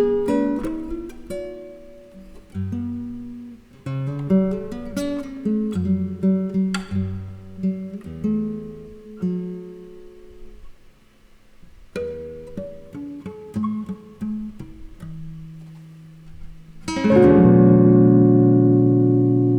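Nylon-string flamenco guitar and Telecaster electric guitar playing a slow jazz duo passage in single plucked notes and chords. About seventeen seconds in, a loud full chord is struck and left ringing, slowly fading.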